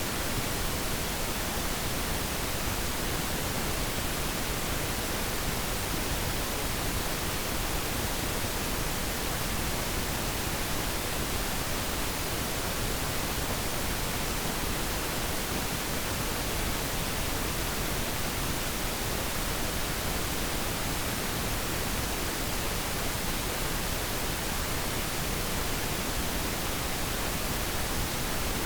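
Synthetic pink noise: a steady, even hiss spread across the whole range, unchanging throughout.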